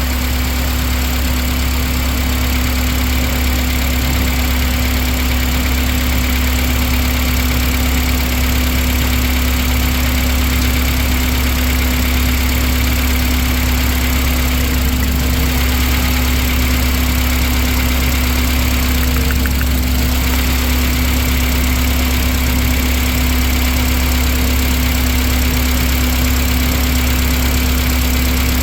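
2004 Honda Accord engine idling with a popping misfire, the sign of a failed ignition coil.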